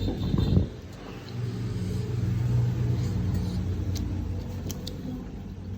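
A motor engine running with a steady low hum, swelling about a second and a half in and then slowly fading, like a vehicle passing by. A short loud noise comes at the very start, and a few light clicks near the end.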